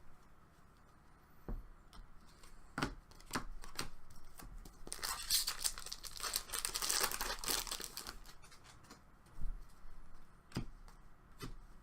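Foil wrapper of a hockey trading card pack being torn open and crinkled, with light clicks of cards being handled. The tearing is loudest and densest in the middle.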